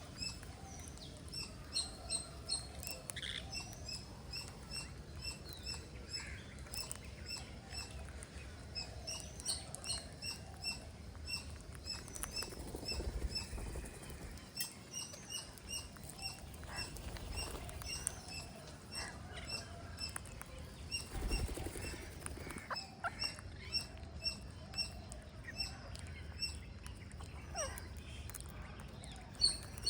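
Green parrots chirping, a steady stream of short high squeaks, several a second.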